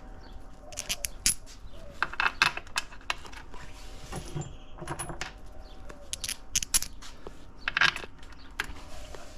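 Hand tools and bolts clinking against a transmission's metal case: scattered sharp metallic clicks and short rattling clusters as the case bolts are fitted and snugged.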